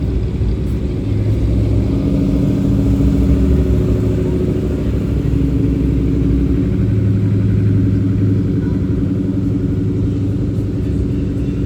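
Vehicle engine running steadily, its low tones shifting slightly a couple of times.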